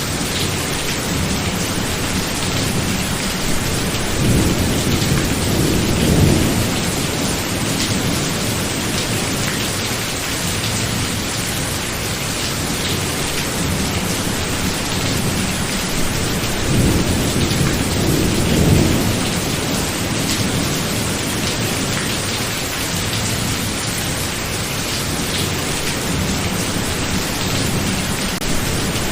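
Heavy steady rain with thunder rumbling twice, a low swelling roll a few seconds in and again about halfway through.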